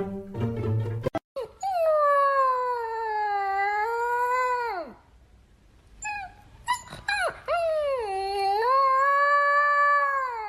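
A dog howling: two long drawn-out howls, each sliding down at the end, with a few short yelps between them.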